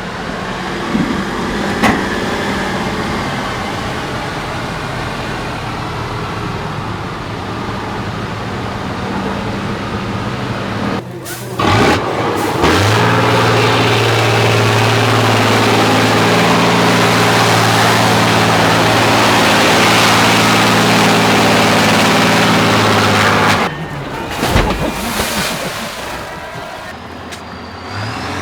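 Heavy off-road trial trucks' diesel engines running and revving hard under load, in several takes that cut abruptly from one to the next. The loudest take, through the middle, is a steady, strongly working engine note.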